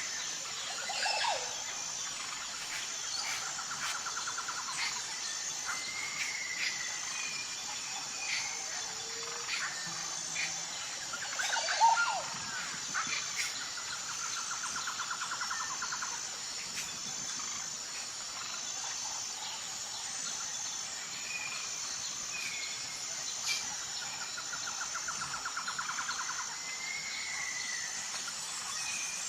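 Tropical forest birds calling over a steady, high-pitched insect drone. Whistled notes and short glides come throughout, and a rapid trill comes three times. A louder call stands out about twelve seconds in.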